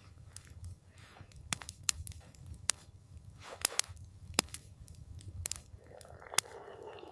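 Campfire crackling: irregular sharp pops and snaps from the burning wood, about eight in all, over a low steady rumble of the fire, with a brief soft rush of noise near the end.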